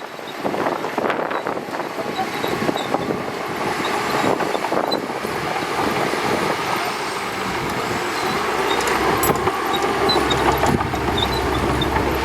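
Shantui DH17C2 bulldozer's diesel engine running, its deep steady note growing louder over the last few seconds.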